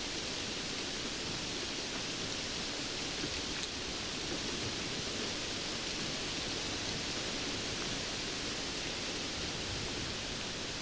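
Steady rainfall: an even, unbroken hiss of rain, without thunder or distinct drops standing out.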